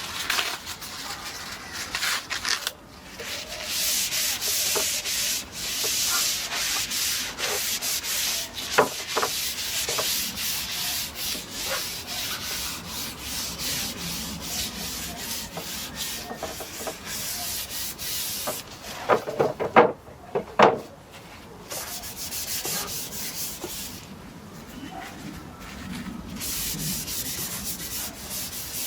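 A brush being drawn across European larch planks to work in oil: a run of scratchy, hissing strokes of bristles on bare wood grain. A few sharp knocks come about two-thirds of the way through.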